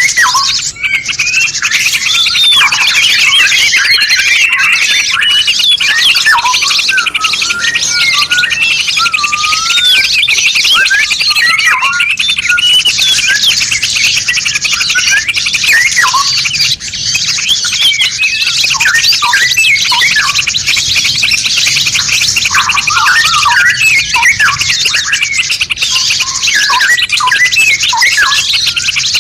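A dense chorus of many songbirds chirping and whistling over one another without a break: a mixed songbird master track for tutoring caged birds, with quick rising and falling notes layered over a constant high chatter.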